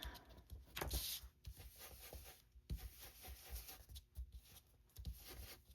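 Faint rubbing and dabbing of ink being blended onto cardstock, light scratchy strokes with a few soft taps.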